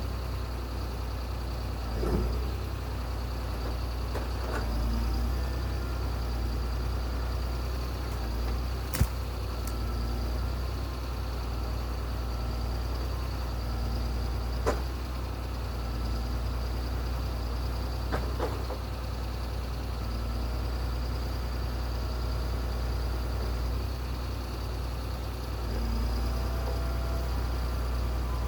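A heavy machine's engine running steadily with a low drone, with a few sharp clicks or knocks, the loudest about nine seconds in.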